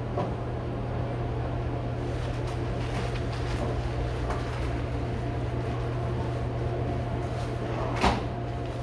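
Steady low machine hum with faint clatter in the background, and a single sharp knock about eight seconds in.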